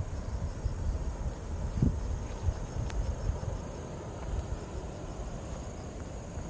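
Insects, crickets by their steady high trilling, chirping without a break over a constant low rumble.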